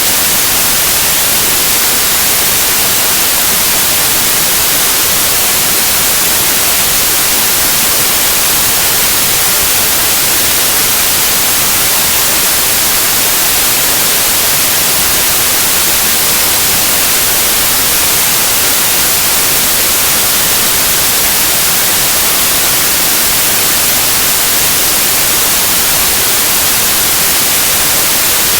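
Steady, continuous white noise: an even hiss, strongest in the treble, that runs unchanged at a constant level.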